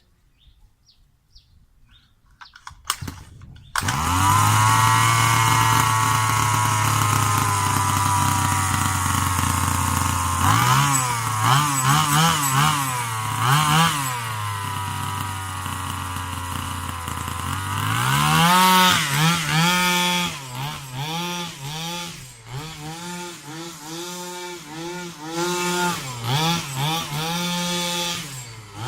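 HPI Baja 5B's 23cc two-stroke petrol engine with the stock box exhaust. It comes in about four seconds in, holding a steady idle, and is blipped a few times around the middle. From about eighteen seconds in it revs up and down over and over, as when the throttle is worked while driving.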